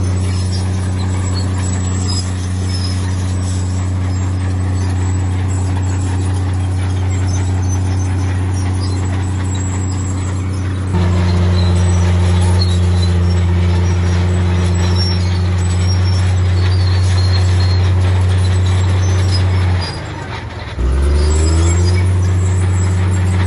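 Heavy diesel engine of an earthmoving machine running steadily, getting louder about eleven seconds in. Near the end its revs drop sharply for about a second, then climb back up.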